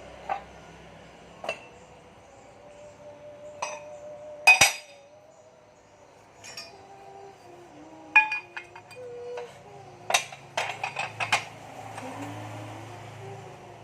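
Metal tools and engine parts clinking against each other during engine work: scattered sharp clinks, the loudest about four and a half seconds in, then a quick run of clinks from about eight to eleven seconds.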